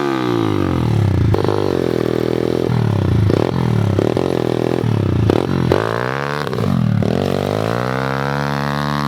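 Pit bike engine revving up and dropping back over and over as it is ridden, the pitch climbing and falling about ten times, then rising and holding steady near the end.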